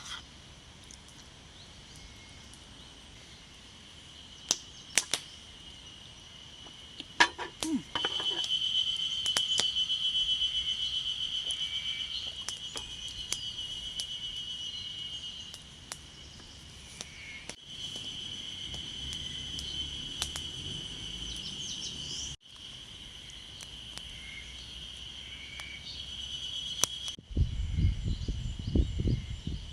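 A steady high-pitched insect buzz, strongest through the middle and broken off abruptly a few times. A few sharp clicks come in the first seconds, and near the end a low gusting rumble of wind on the microphone sets in.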